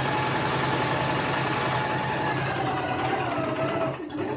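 Electric sewing machine running steadily at speed, stitching a seam on a blouse. Its motor hum dips slightly in pitch about three seconds in.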